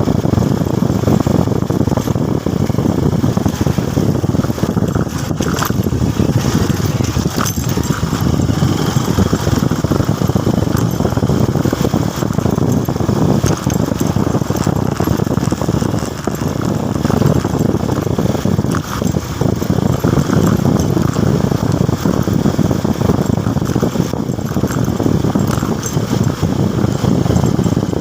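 Motorcycle running on the road, a steady loud engine and road noise with brief small dips about 16 and 19 seconds in.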